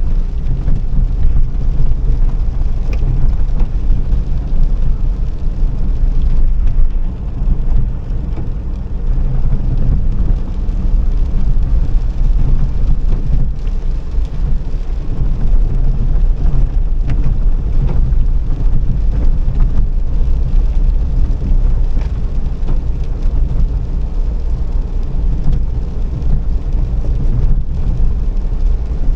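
A car being driven: a steady, loud low rumble of engine and road noise, with a few faint clicks.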